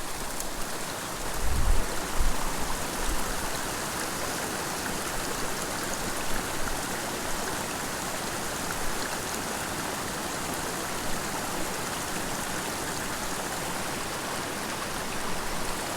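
Small mountain creek babbling steadily over rocks, with a brief low rumble of bumps about two seconds in.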